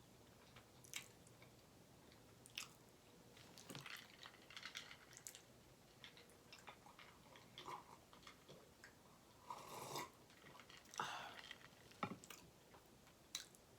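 A person chewing food, faint and close, with scattered wet mouth clicks and a few louder crunching bites about two-thirds of the way through.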